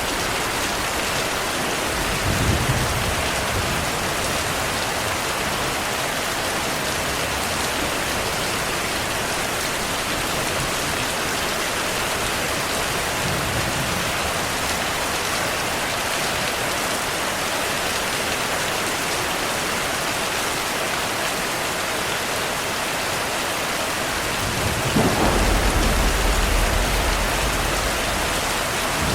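Steady heavy rain with a constant hiss, and rolls of thunder: a short rumble about two seconds in, a faint one near the middle, and a longer, louder rumble near the end.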